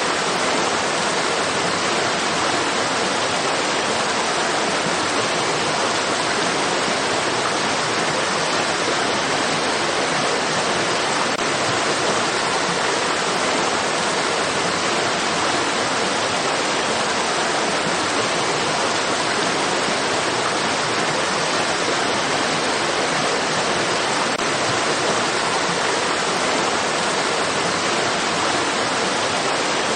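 Rushing stream water: a steady, even hiss of flowing water that never changes.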